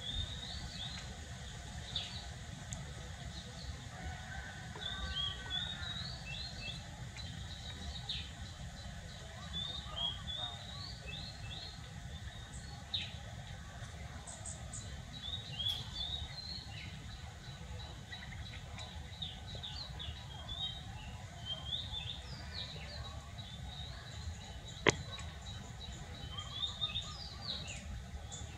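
Small birds chirping in short, quick calls, scattered all through, over a steady low background rumble. A single sharp click comes a few seconds before the end.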